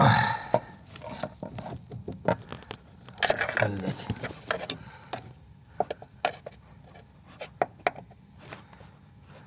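Nissan Serena C25 steering rack knocking: scattered sharp knocks and clicks, with two longer scraping rubs, one at the start and one about three seconds in. It is the knock of a defective steering rack.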